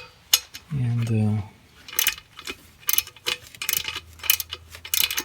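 Ratchet wrench clicking in short, irregular runs, with light metallic clinks of tool on metal, as the bolts of an exhaust brace under a car are loosened.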